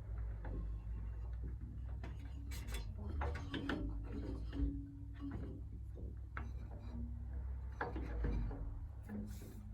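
Wooden marimba bars being set onto the frame during assembly: a run of irregular light knocks and clicks of wood on wood.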